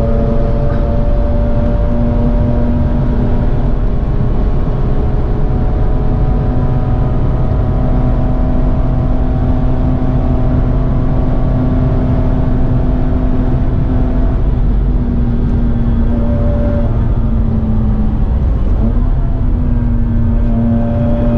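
Mazda RX-8's twin-rotor Renesis rotary engine heard from inside the cabin, running hard at steady high revs. About two-thirds of the way through it eases off, then it picks up again near the end.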